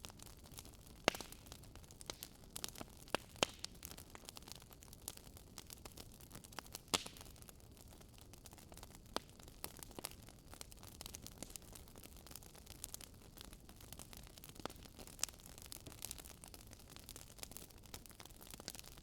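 Wood fire crackling, with irregular sharp pops and snaps over a faint hiss, a few pops louder than the rest.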